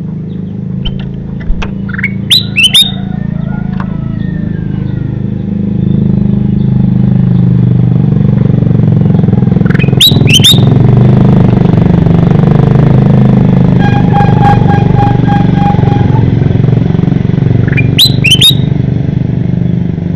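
A bulbul (kutilang emas) gives three short, sharp, sweeping calls, about eight seconds apart. Behind the calls is the loud, steady hum of a running engine, which grows louder about a third of the way in, and a brief pulsing tone comes in the middle.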